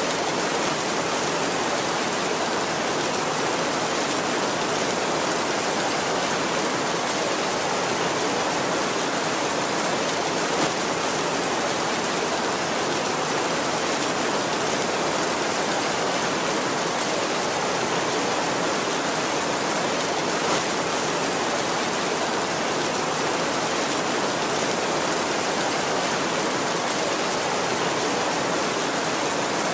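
Heavy rain falling on a tin roof as a steady, even hiss, with no thunder.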